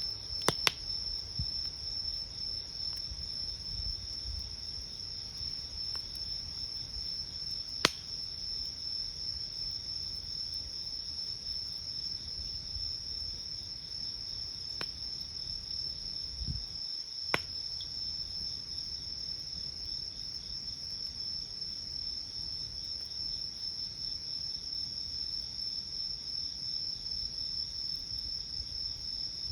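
Crickets chirring steadily in a high, unbroken trill, with a few sharp pops from a wood campfire, the loudest about eight seconds in.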